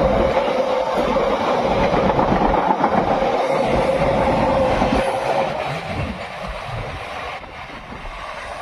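Train rolling past with wheels clattering on the rails and a steady high tone over the rumble, fading away over the last few seconds.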